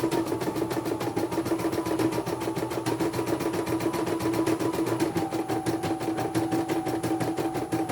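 Computerized embroidery machine stitching, its needle running in rapid, even strokes over a steady motor hum. The motor's pitch steps down slightly about five seconds in.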